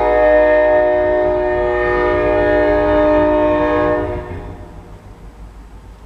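Norfolk Southern diesel locomotive's air horn sounding one long, steady chord of several tones, cutting off about four seconds in, over the low rumble of the train.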